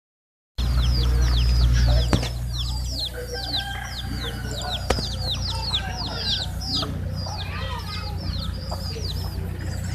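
Chickens calling: a quick, steady stream of high, falling peeps, several a second, with a few lower clucking calls in the middle. A low rumble runs underneath, heavier in the first two seconds.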